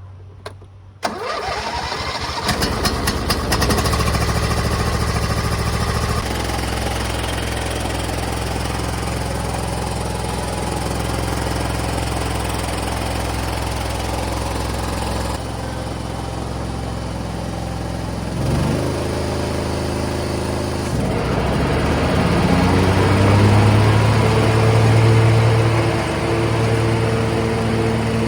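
26 hp Briggs & Stratton V-twin on a riding mower cranked by its electric starter, catching within about two seconds and then running steadily. About two-thirds through the pitch dips and then climbs, and the engine runs faster and louder to the end.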